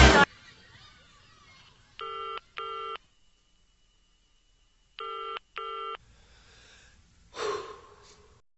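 A telephone ringing in a double-ring pattern: two short rings, a pause of about two seconds, then two more. Music cuts off just at the start, and a brief breathy noise comes near the end.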